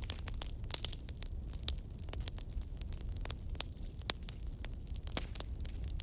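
Wood fire burning, with many quick irregular crackles and pops over a steady low rumble of the flames.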